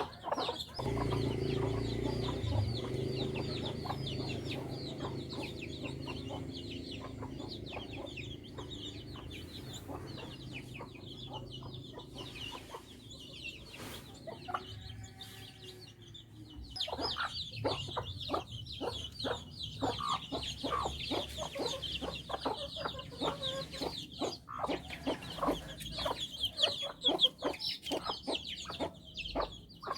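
Chickens clucking, with birds chirping high and continuously. A low steady hum runs through the first half and fades, and the clucking grows busier in the second half.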